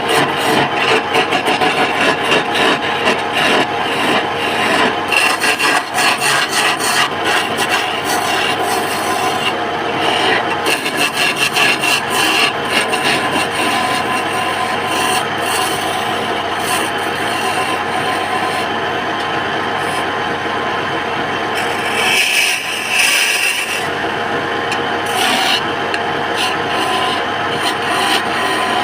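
Wood lathe running while a turning tool scrapes and cuts the spinning wood: a continuous loud rasping over a steady machine hum, turning briefly thinner and higher about three-quarters of the way through.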